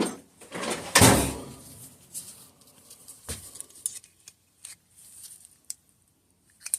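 Handling noises from working on a hydraulic disc brake at the bench: a loud clunk with a brief rustle about a second in, a sharp knock a little after three seconds, then scattered light clicks.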